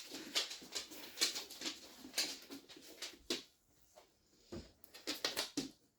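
A German Shepherd sniffing at its presents: a run of quick, short sniffs for about three seconds, then a pause and a few more sniffs near the end.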